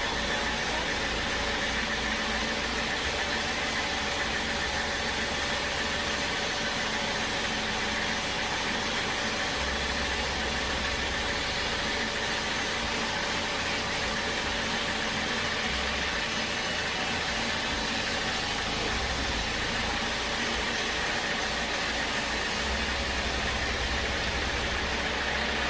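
Sawmill machinery running steadily: a constant mechanical noise with a faint steady whine and no breaks.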